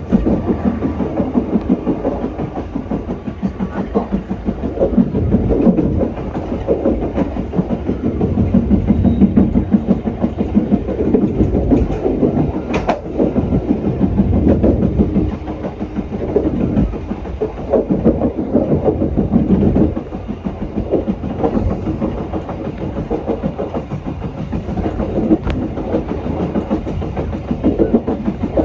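Passenger train running on the rails: a steady rumble of wheels and coaches with a fast clattering rhythm. A single sharp click is heard about thirteen seconds in.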